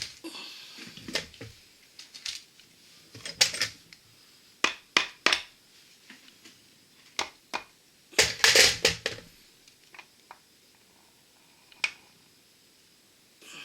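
Irregular sharp metallic knocks and clunks as the crankshaft of a Yamaha R1-Z two-stroke twin is worked free of its tight-fitting crankcase half, with a longer, louder clatter about eight seconds in.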